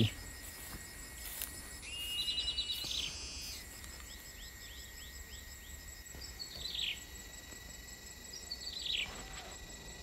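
Small birds calling in the open: a short high trill, then a run of about five quick downward chirps, then two brief calls near the end, over a steady high insect drone.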